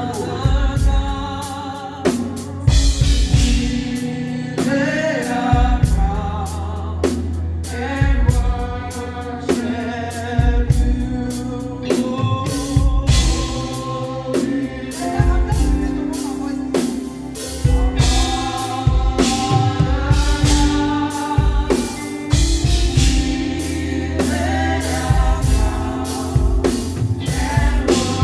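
Live gospel praise music: several voices singing a worship song over a band with drum kit.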